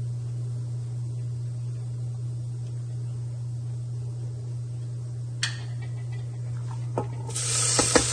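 Chopped onions hitting hot oil in an Instant Pot's steel inner pot on sauté mode: a loud sizzle starts suddenly about seven seconds in, with a few sharp taps as the chopper container is knocked against the pot. Before that there is only a steady low hum and two faint clicks.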